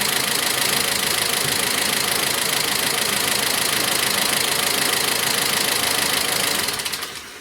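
Toyota Prado's 2TR four-cylinder petrol engine idling steadily with its VVT-i oil control valve unscrewed. It is switched off near the end, and the running sound dies away within about half a second.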